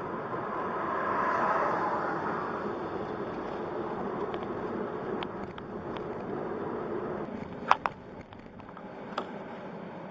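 A car on the road: steady road and engine noise that swells briefly about a second in, with two sharp clicks close together near the end and one more shortly after.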